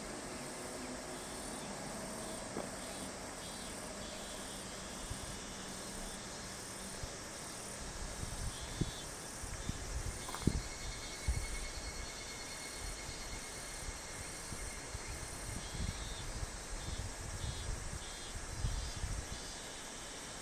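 Evening cicadas (higurashi) calling in repeated pulsed phrases over a steady insect hiss. Irregular low rumbles come in from about eight seconds in.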